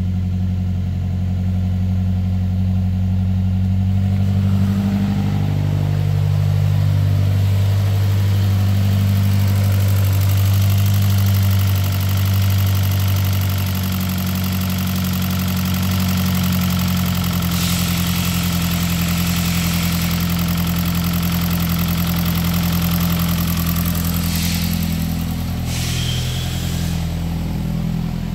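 A 2000 Saab 9-5's 2.3-litre turbocharged four-cylinder engine idling steadily, its pitch shifting slightly a couple of times. Two brief bursts of hiss come in the second half.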